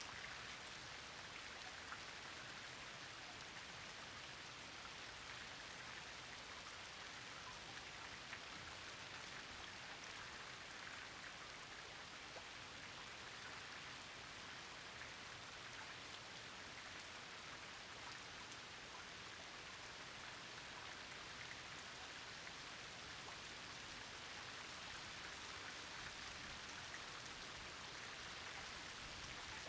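Steady rain falling: an even hiss sprinkled with countless small drop ticks, unchanging in strength.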